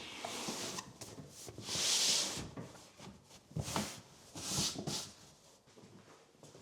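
Household objects being handled: light knocks and clicks, with two swelling bursts of hiss or rustle about two and a half seconds apart.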